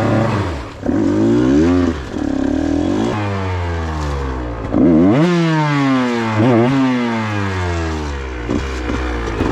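KTM 125 XC two-stroke dirt bike engine revving on and off, with the throttle opened and closed. The revs rise sharply about five seconds in, blip again shortly after, and fall away after each.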